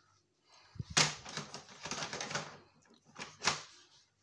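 Plastic and metal parts of a satellite set-top box being handled and pulled apart: sharp clicks and rattling, loudest about a second in, with another sharp click near the end.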